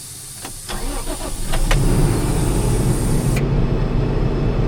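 Diesel tractor engine starting: a few clicks, then it cranks and catches, building to a steady idle within about two seconds. A high hiss stops suddenly about three and a half seconds in.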